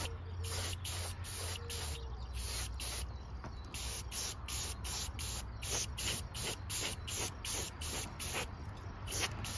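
Airbrush spraying paint, its air hiss pulsing evenly about four or five times a second over a steady low hum.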